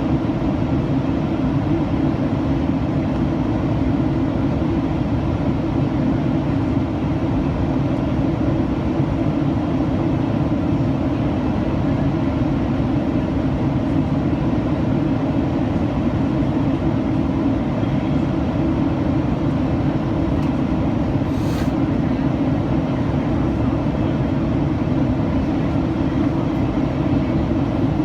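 Steady cabin drone of a Boeing 737-800 in flight, from airflow and its CFM56-7B turbofans, deepest in the low range. A short click about three-quarters of the way through.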